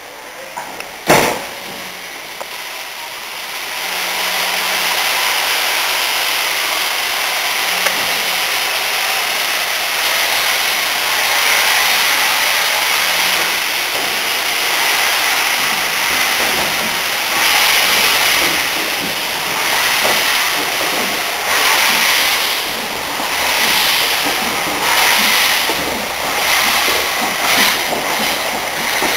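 Steam locomotive giving off a loud, steady hiss of steam that swells and pulses about once a second in the second half. A single sharp knock comes about a second in.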